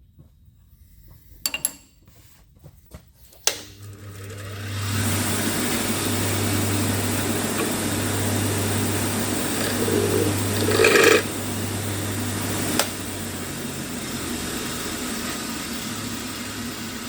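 An electric grinder switched on and spinning up to a steady run, with a short grind of a steel part about ten seconds in: a spark test, the sparks marking it as steel rather than cast iron. Near the end there is a click and the grinder runs down.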